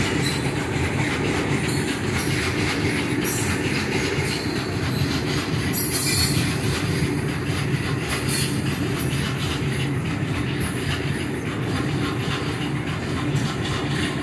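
Open-top freight wagons of a goods train rolling past close by: a steady rumble of wheels on rail, broken by brief high-pitched wheel squeals a few times.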